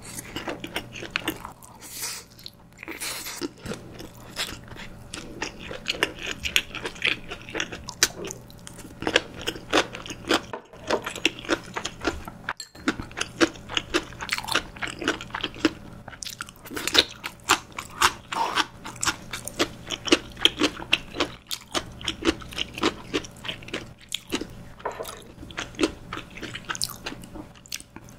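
Close-miked chewing of a steamed dumpling: soft wet mouth clicks, several a second, with a fresh bite into another dumpling near the end.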